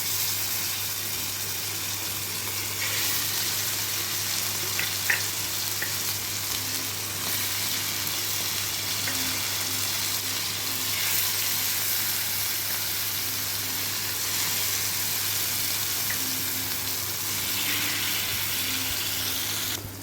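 Marinated chicken pieces sizzling steadily in hot oil on a flat dosa griddle, with a steady low hum underneath.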